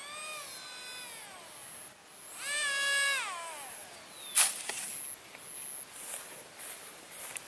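A cat meowing twice; the second meow is louder and longer and slides down in pitch at its end. A sharp click follows, with a faint, high, evenly pulsing tone behind.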